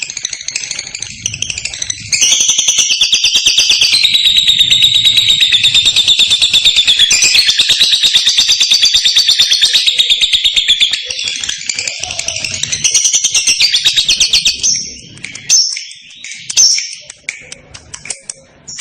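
Lovebird singing its long, rapid chattering trill ('ngekek'). It starts about two seconds in, runs unbroken for some thirteen seconds, and breaks into shorter high chirps near the end.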